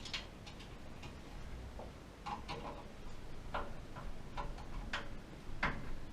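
A series of light, irregularly spaced clicks and taps, as of small hard parts or a tool being handled, a few with a brief ring.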